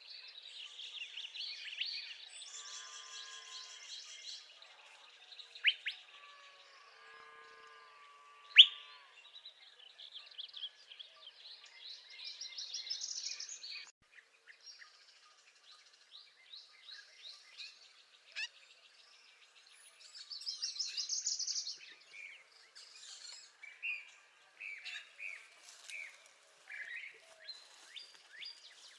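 Northern parula singing: twice, a fast buzzy trill that climbs in pitch and ends abruptly. Other birds call and chip around it, with two sharp loud chips in the first third.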